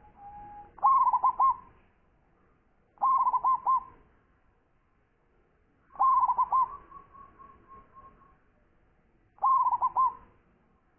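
Zebra dove (perkutut) cooing its song: four short phrases of rapid, bubbling coos, about three seconds apart.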